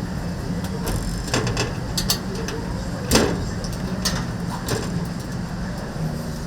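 Restaurant kitchen work: scattered sharp knocks and clicks, the loudest a little past three seconds in, over a steady low hum.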